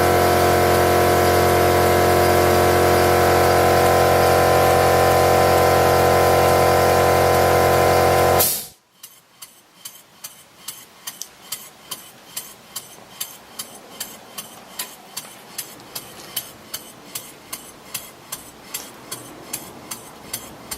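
An air compressor running steadily, cutting out abruptly about eight seconds in. Then a Stuart James Coombes model engine running slowly on compressed air: an even beat of exhaust puffs, about two to three a second, at realistic scale speed.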